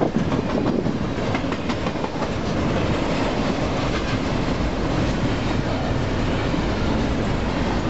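Double-stack container train's well cars rolling past at speed: a steady rumble of steel wheels on the rails, with scattered wheel clacks, most of them in the first few seconds.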